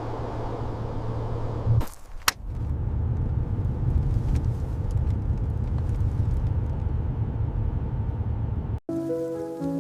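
Steady low rumble, broken by a sharp click about two seconds in. It cuts off abruptly near the end, and music with sustained notes begins.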